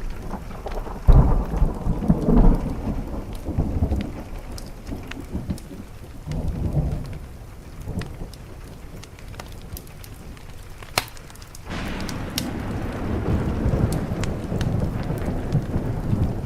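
Steady rain with rolling thunder: a heavy rumble breaks about a second in and dies away over a few seconds, and another long rumble builds near the end. Scattered sharp crackles from a wood fire run over it.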